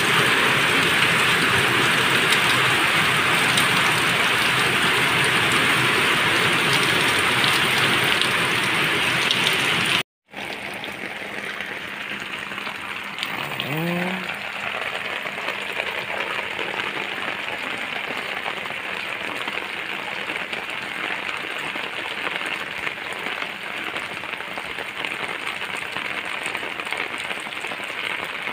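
Heavy rain pelting standing water on a flooded concrete rooftop, a steady hiss. It is louder for the first ten seconds, cuts out for a moment, then carries on quieter. A brief rising voice-like sound comes near the middle.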